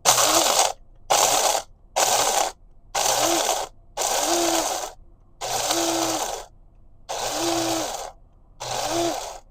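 Electric coffee grinder grinding coffee beans in eight short pulses. Each burst is about a second long, and its motor whine rises and falls as it spins up and stops.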